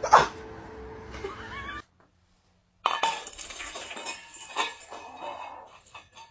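Clinking and clattering of hard objects: a sharp knock right at the start, then, after a short break, a string of quick clinks and clatters.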